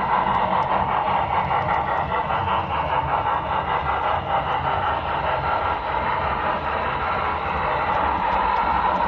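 Model train running along its track: a steady whir of its motor and wheels, with faint light clicks.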